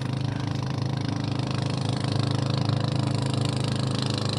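Small boat engine running steadily with an even, low drone.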